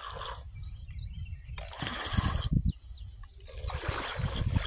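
Small birds chirping in quick, short notes, in two clusters between three stretches of loud rushing hiss, over a constant low rumble.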